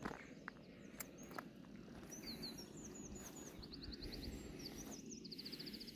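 Small birds chirping faintly: short high hooked calls and quick trills, repeating from about two seconds in over a low steady outdoor background noise. A few soft clicks come in the first second and a half.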